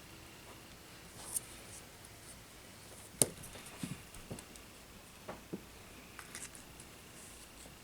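Scattered light clicks and taps of hand tools and small parts being handled at a workbench, with one sharper click about three seconds in.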